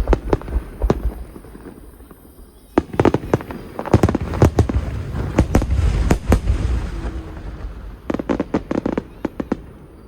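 Fireworks display: a string of sharp bangs and crackles, thickening into a dense barrage of crackling bursts over a low rumble from about three to seven seconds in, then a shorter cluster of cracks near the end.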